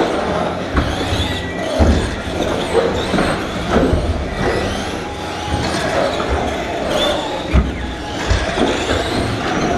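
Several radio-controlled racing trucks running together on a track: a busy mix of short, changing motor whines with scattered low thumps, echoing as in a large hall.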